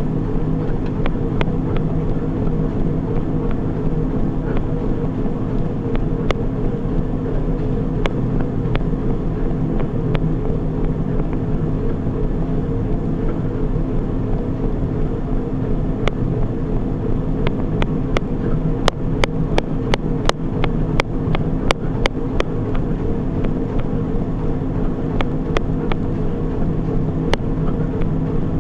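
Treadmill running, a steady motor and belt hum with a few fixed tones. Sharp little clicks are scattered through it, most of them around two-thirds of the way in.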